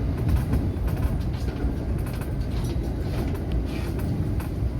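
Running noise of a JR West 227 series electric train heard from inside the leading car: a steady low rumble of wheels on rail, with a few light clicks.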